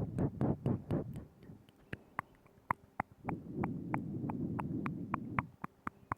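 Close-miked ASMR mouth sounds: a string of wet tongue clicks and lip smacks, about two or three a second, over soft low noise in the first second and again through the middle.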